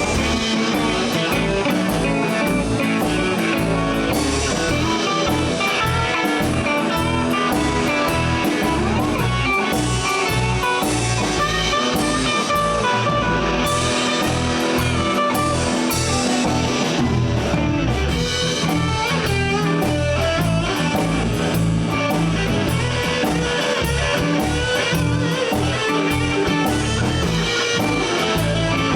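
Live blues band playing an instrumental passage: electric guitar over bass and a drum kit keeping a steady beat.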